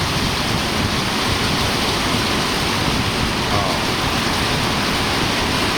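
Steady, even rushing hiss at a constant level, with no distinct events in it.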